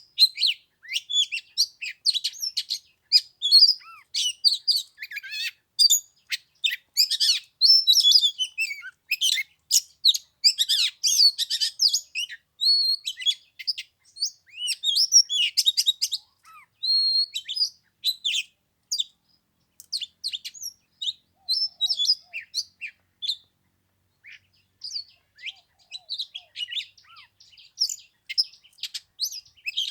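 Oriental magpie-robin singing: a fast, varied stream of whistles and chirps, busiest in the first half, thinning out later with a brief pause about three-quarters through.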